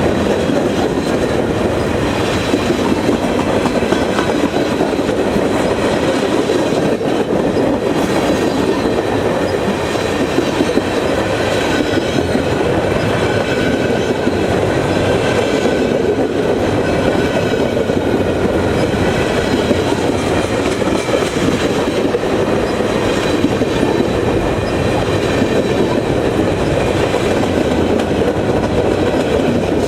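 Train cars rolling past, a steady loud rumble of wheels on rail, with faint high ringing tones above it.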